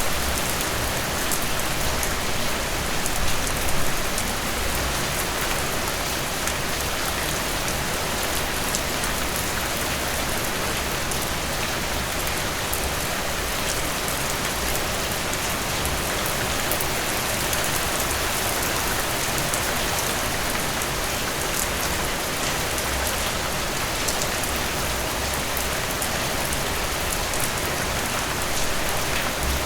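Heavy rain falling steadily: an even hiss with many fine drop ticks, swelling briefly about three seconds in.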